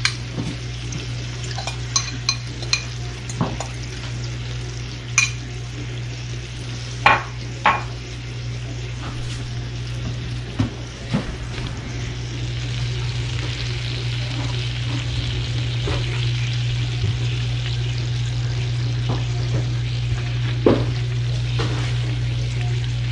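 Bacon-wrapped stuffed quail frying in oil in a cast-iron Dutch oven: a steady sizzle that grows louder in the second half. In the first half a spoon clinks and scrapes against a glass bowl and plates, with one more tap near the end, over a steady low hum.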